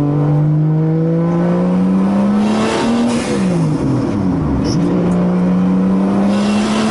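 Turbocharged 2JZ-GTE inline-six in a Nissan 240SX drift car, running under load and revving up. The pitch climbs, dips and climbs again three to four seconds in, then holds steady.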